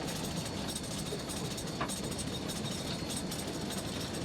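Steady rolling noise of the No. 40 steam locomotive moving along the track, heard from its cab, with faint wheel-on-rail clicks.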